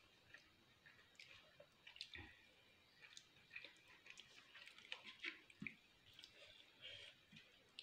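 Faint close-up chewing of soft spiral pasta: many small wet mouth clicks and smacks at an irregular pace.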